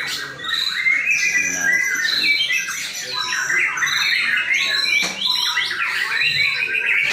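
Several white-rumped shamas (murai batu) singing at once: overlapping loud whistles and rapid chattering phrases.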